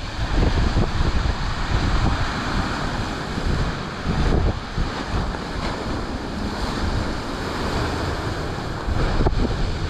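Strong gusty wind buffeting the microphone, over the steady wash of ocean surf.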